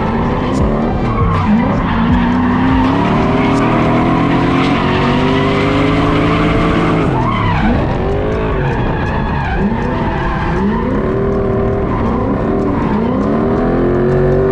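Drift truck's engine revving up and down hard as the truck drifts, with the tyres skidding and squealing. The revs drop sharply and climb again a few times about halfway through.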